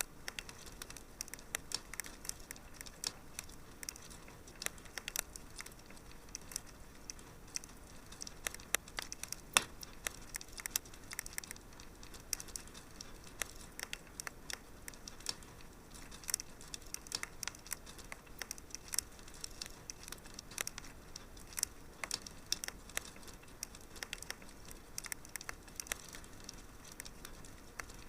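Wood fire crackling in a fireplace: a dense, irregular run of sharp pops and snaps over a faint steady hiss, with a louder pop about nine and a half seconds in.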